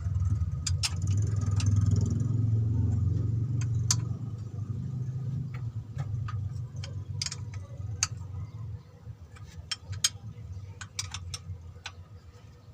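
Short, sharp metallic clicks and clinks of hand tools on engine parts, scattered irregularly, over the low rumble of a vehicle engine that fades after about four seconds.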